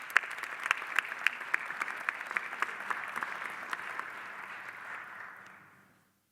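Audience applauding, a steady patter with a few sharp, close claps standing out, fading and dying away near the end.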